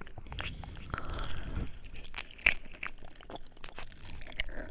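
ASMR mouth sounds: an uneven run of short clicks and smacks, the sharpest about two and a half seconds in.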